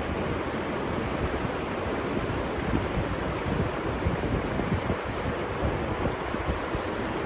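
Steady rushing of a river's flowing water, with a low fluttering rumble of wind on the microphone.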